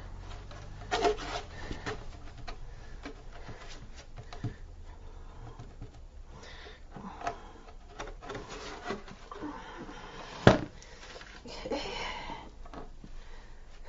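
Hands pressing and rubbing screening into a bead of glue along the edge of a crate: soft, scattered rubbing and rustling, with one sharp click about ten seconds in.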